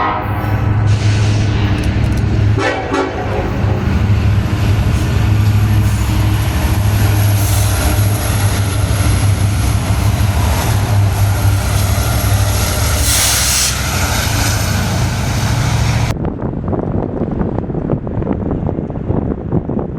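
Diesel locomotive horn trailing off, a brief horn toot about 2.5 s in, then the steady low rumble of the locomotive's diesel engine and the rail noise of the passing train. About 16 s in it cuts off suddenly to wind noise on the microphone.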